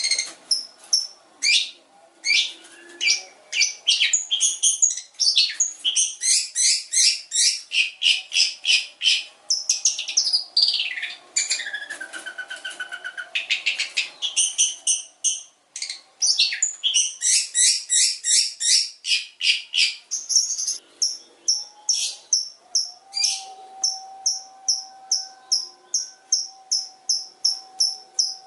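Long-tailed shrike (cendet) singing a long, varied song of quick high chirps repeated in fast runs, several a second, switching between phrases with short pauses and a few sliding notes. This is the rapid-fire 'tembakan' style of a contest cendet, with imitated calls worked into the song.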